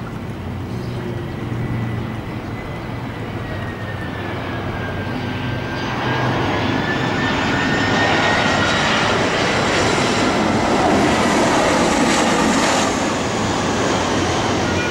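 Jet airliner landing low overhead: a high engine whine that slides slightly lower in pitch over a rising jet noise, growing loud from about six seconds in and peaking a few seconds later.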